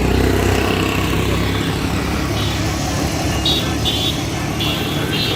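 Road traffic noise with a vehicle engine rumbling, easing off about a second and a half in. Short high-pitched sounds repeat through the second half.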